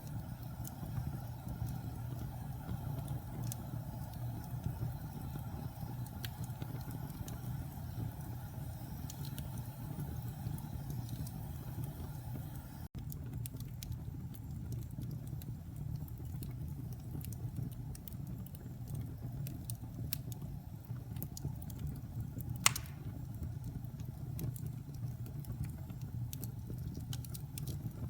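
Wood fire burning in a fireplace: a steady low rumble with scattered soft crackles and one sharper pop about three-quarters of the way through.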